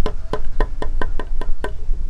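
A rapid run of evenly spaced knocks, about four a second, stopping near the end, over a steady low rumble.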